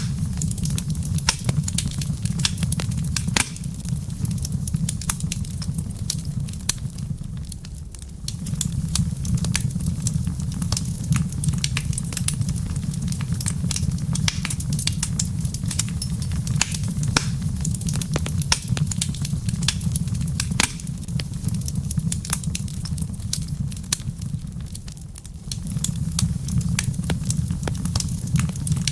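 Wood fire in a fireplace crackling, with frequent sharp pops and snaps over a low rumble. The rumble drops away briefly about eight seconds in and again near the end.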